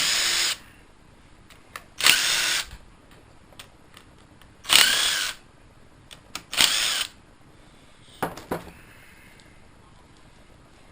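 Cordless power tool run in four short bursts, each about half a second to a second long, spinning the valve cover bolts out of a Kohler pulling engine. Two sharp clicks follow near the end.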